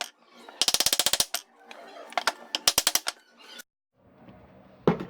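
Two bursts of rapid mechanical clicking, about ten sharp clicks a second, like a ratchet, followed near the end by a single thump.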